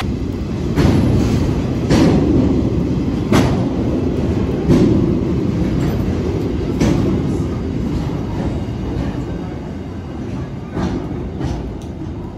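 Freight train hopper wagons rolling past close by: a steady low rumble with irregular sharp clacks of wheels over the rails, easing off as the end of the train passes.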